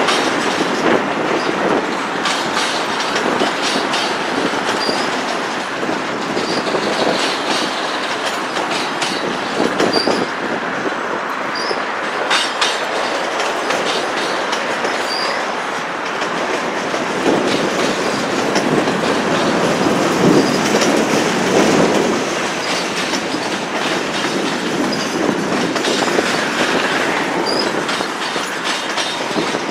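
Freight cars of a mixed manifest train rolling past: steady steel-wheel rumble with wheels clicking over rail joints, and short high wheel squeals every few seconds.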